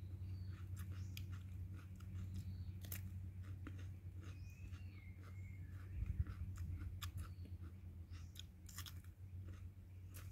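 A person chewing roast chicken: a run of short, sharp wet mouth clicks and crunches, irregular, with a slightly louder bite about six seconds in.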